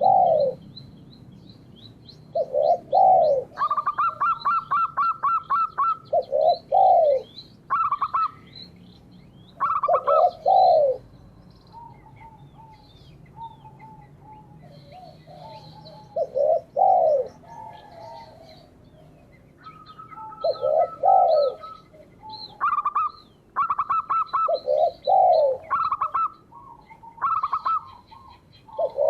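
Doves cooing, one short phrase every three or four seconds. Between the coos other birds give rapid ticking trills and high chirps.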